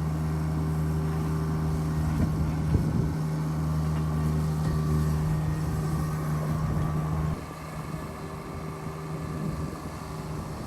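An engine running steadily, its level dropping suddenly about seven seconds in, with a couple of brief knocks around two to three seconds in.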